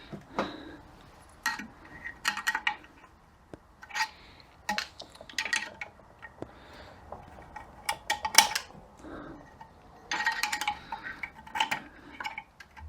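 Thin steel snap rings and other small metal parts of a 42RE transmission's overdrive clinking against each other and the housing as they are handled and set in place: irregular light clinks, each with a short ringing tone.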